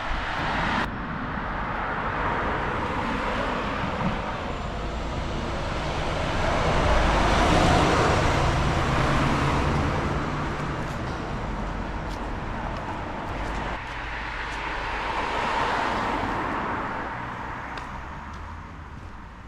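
Road traffic: cars passing by with tyre and engine noise, one swelling up and fading about halfway through and another near the end.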